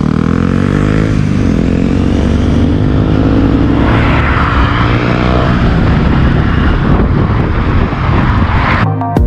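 Motorcycle engine running on the move under heavy wind and road noise, its pitch rising as it accelerates in the first few seconds. Music cuts in abruptly near the end.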